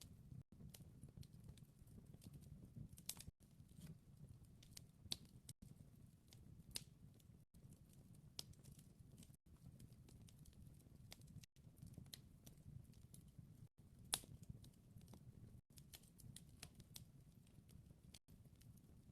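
Wood fire crackling quietly: irregular snaps and pops, a few sharper than the rest, over a soft low rumble.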